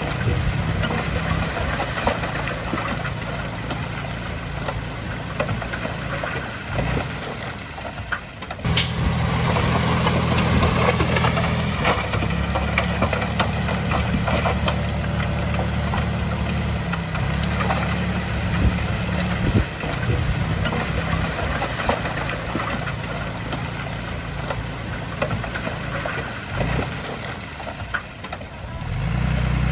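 Heavy diesel engine of earthmoving machinery running steadily under load. It eases off about seven seconds in, then comes back loud after a sharp click a second or so later, and dips again briefly near the end.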